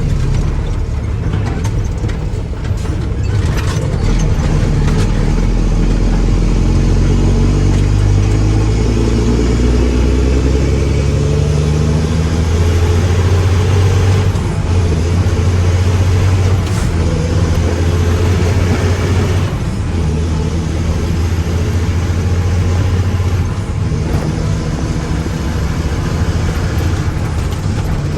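Mack truck's diesel engine revving up over several seconds and then held at high revs, easing off briefly twice near the end.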